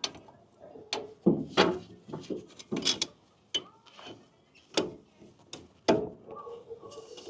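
Irregular sharp clicks and knocks of channel-lock pliers worked on a brake caliper, squeezing the caliper piston back into its bore to make room for the pads.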